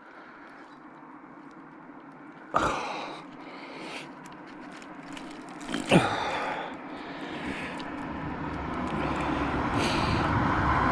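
A car approaching along the road, its engine and tyre noise growing steadily louder through the second half. Two short, sharp sounds come before it, about two and a half and six seconds in.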